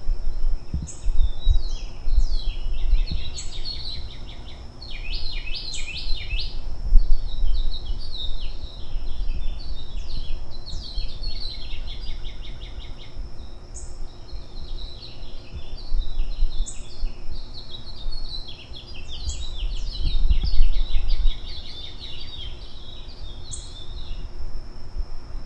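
Birds chirping and twittering in repeated bursts of rapid high notes, over a thin steady high tone and a low rumble that swells and fades.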